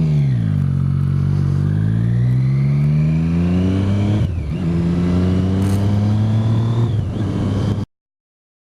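Motorcycle with an aftermarket Arrow exhaust can pulling away and accelerating. The engine note rises through a gear, drops briefly at a gear change about four seconds in, rises again, then cuts off suddenly near the end.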